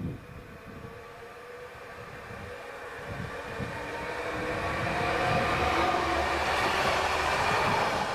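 A train approaching on the line, its rumble growing steadily louder over the first five seconds or so, with a few steady whining tones above it.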